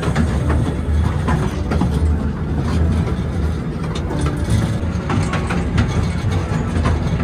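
Steady low rumble of a vehicle in motion, with small rattles and clicks over it.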